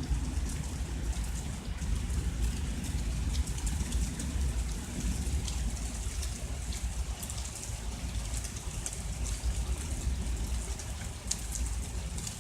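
Steady rain falling during a thunderstorm, with many small sharp drop ticks over a continuous low rumble.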